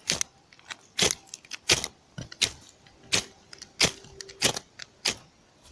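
Ferrocerium fire-starter rod struck repeatedly with its metal striker: about eight sharp scrapes at a steady pace, roughly one and a half a second. The sparks are not lighting the tinder.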